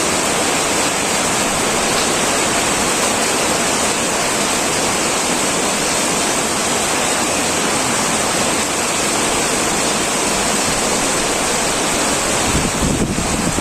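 Heavy rain pouring steadily onto an old tin roof, a dense even hiss of drops. Near the end a low, uneven rumble joins it.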